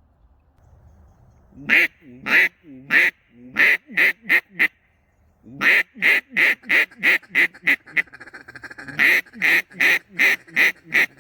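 Duck quacking in three runs of short, loud quacks, about three a second, starting about two seconds in.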